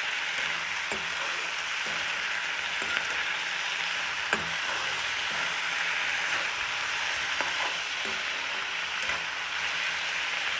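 Chopped tomatoes, onions and cashews sizzling steadily in oil and butter in a karahi, with a metal spatula stirring through them and a few sharp clicks as it knocks against the pan.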